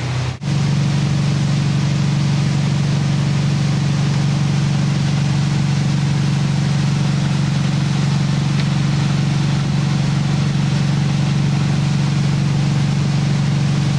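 Tow boat's engine running steadily at towing speed, a constant low hum with water and wind noise over it, heard from aboard. The sound drops out briefly about half a second in, then carries on unchanged.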